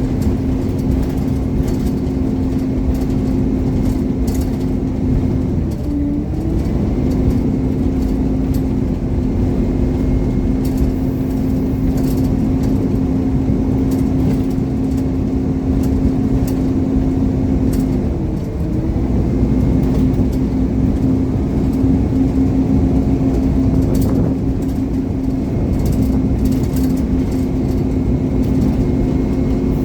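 Scania Omnicity single-deck bus's 230 hp diesel engine running as the bus drives, heard from inside the cabin. Its steady low drone dips briefly twice, about six seconds in and again after about eighteen seconds, then picks up again.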